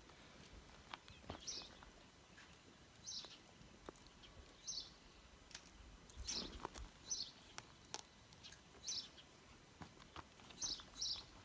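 A small bird giving short, high chirps, one every second or two and sometimes two close together, with a few faint knocks and clicks.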